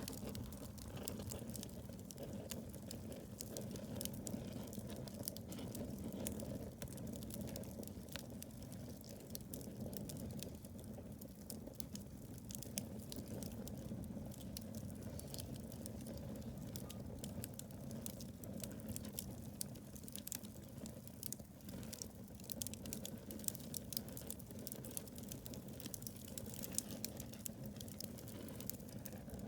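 Wood campfire burning fiercely, crackling and popping continually in quick irregular snaps over the low steady rush of the flames.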